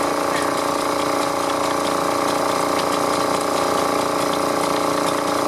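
Vintage stationary engine running at a steady speed, an even, unchanging mechanical hum.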